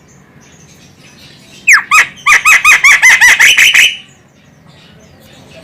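Female Javan myna (jalak kebo) giving a fast run of about ten loud calls, about five a second, starting nearly two seconds in and stopping about four seconds in.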